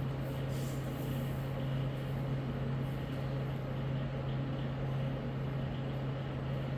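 A steady, unchanging low mechanical hum under a constant, even noise.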